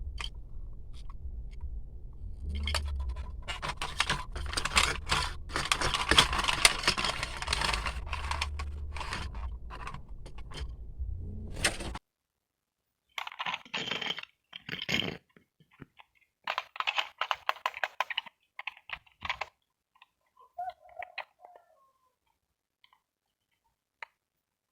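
Mini handheld vacuum cleaner running with a low hum and a dense crackle of bits being sucked up, switched off suddenly about halfway through. Scattered clicks and taps of handling follow.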